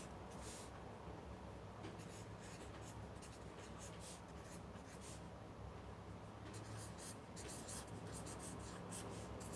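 Faint scratching of a pen writing on paper: short irregular strokes, coming thickest in the last few seconds.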